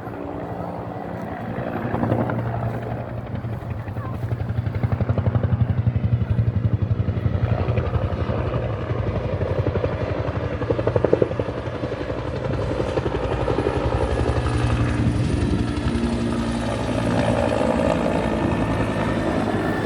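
Firefighting helicopter flying nearby, its rotor chopping in a fast steady beat that grows louder about two seconds in and stays loud.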